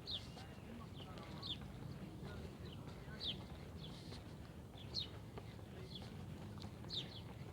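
Birds chirping: a sharp, falling high-pitched chirp every second or two, with fainter calls between, over a steady low background rumble.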